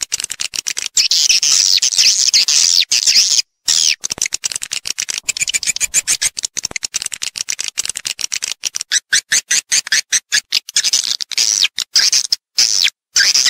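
Recorded swiftlet calls of the kind played to lure swiftlets into a nesting house: dense, fast twittering chirps and clicks. The sound cuts out suddenly for short moments, once about three and a half seconds in and again near the end.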